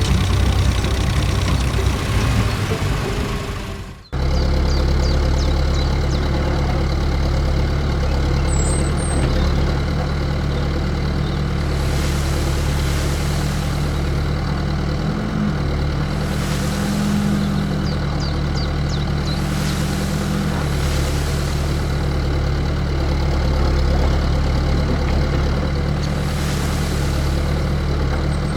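Heavy diesel truck engine idling steadily, with a few short hisses like air brakes being released. It starts after a sudden cut about four seconds in.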